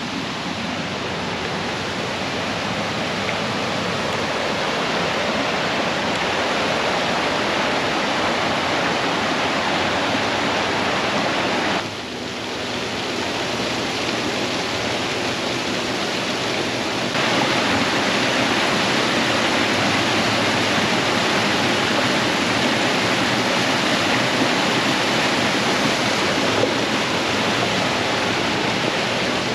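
Waterfall: a steady rush of falling water. The level dips briefly about twelve seconds in and steps up a few seconds later.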